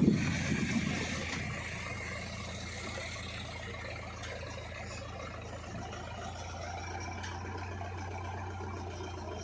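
Heavy diesel machinery engine running steadily with a low hum, with a brief louder surge right at the start.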